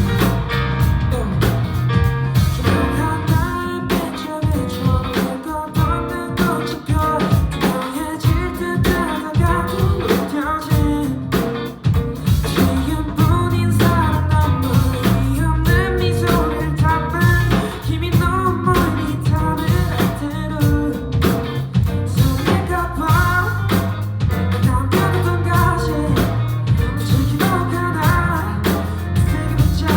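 A live band performing a pop-rock song: a singer over electric guitar, bass and drum kit.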